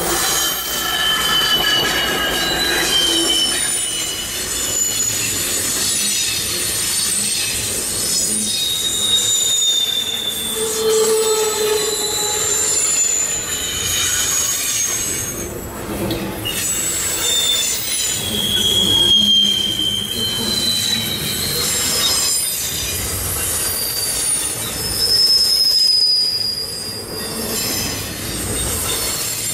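CN freight train Q104 rolling past, its steel wheels squealing against the rails in many short, high, wavering screeches over the steady rumble and clatter of the cars.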